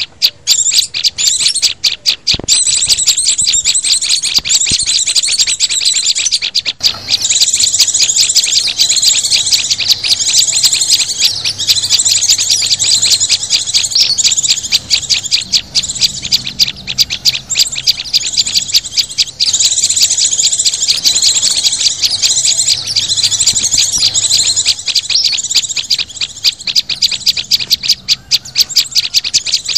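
Bird-luring call mix of small songbirds (sunbirds, white-eyes, prinias and flowerpeckers) chirping and trilling all at once, in a loud, fast, unbroken high chatter.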